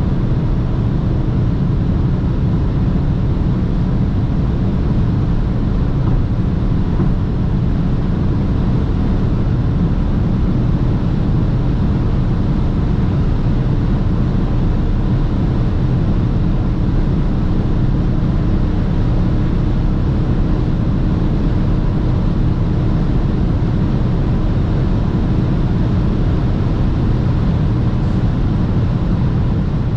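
BMW 330d xDrive's six-cylinder diesel running steadily at speed, with a dense, constant rush of tyre, road and wind noise and no change in engine pitch.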